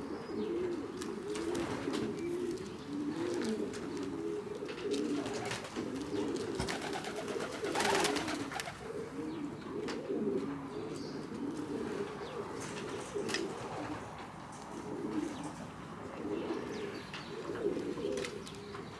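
Several racing pigeons cooing together, overlapping low, wavering coos that run on without a break. Scattered sharp clicks, and a louder rustling burst about eight seconds in.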